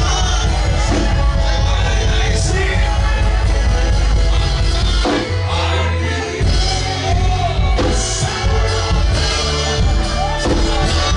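Gospel worship music with singing, and shouts now and then.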